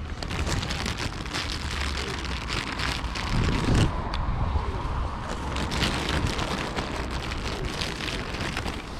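Wind buffeting the microphone with a low rumble and a steady crackling patter, with a stronger gust about three and a half seconds in.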